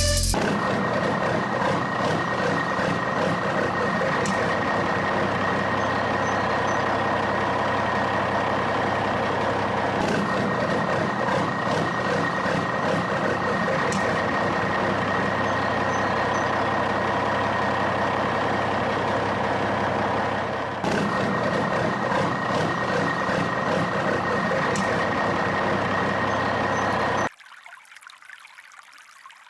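Steady truck engine sound running at an even level, then cutting off abruptly near the end.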